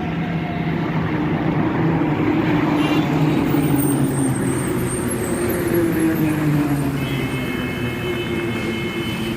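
Heavy truck engine running on the road, its pitch climbing for a few seconds and then falling away. Near the end a steady high tone sounds for about two seconds.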